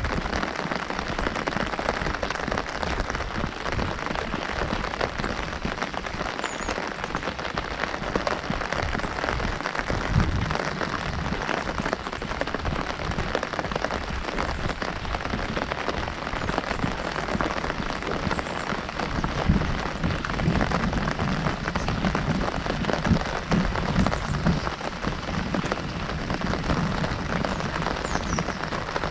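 Heavy rain falling on an umbrella overhead: a dense, steady patter of drops on the canopy.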